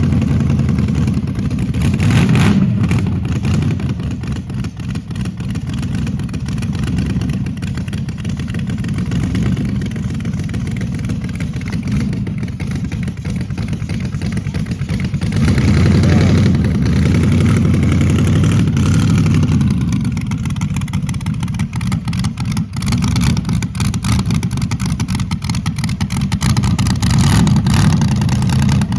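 Super Comp dragster's 600-horsepower 383 stroker V8 running, with the throttle brought up three times: shortly after the start, about midway, and near the end.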